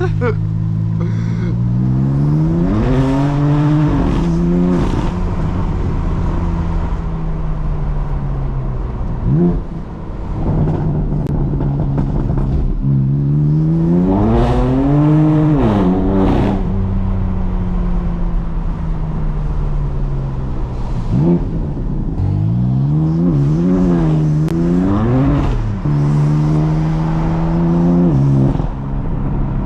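BMW M4 CS's twin-turbo inline-six under hard acceleration three times, each time the engine note climbing steeply, dropping at a gear change and climbing again, with steadier running in between.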